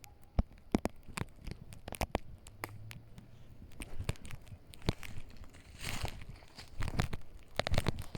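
Footsteps on the forest floor, crunching and crackling at uneven intervals, with a denser stretch of rustling about six seconds in.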